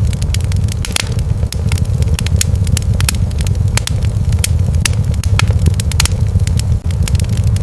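Wood fire crackling, with frequent irregular snaps and pops over a steady low rumble of the burning fire.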